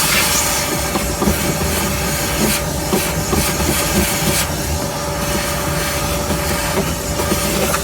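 Shop vacuum rated at 5 horsepower running steadily with a constant motor whine under the rush of air, the hiss of the suction changing a few times as it is worked.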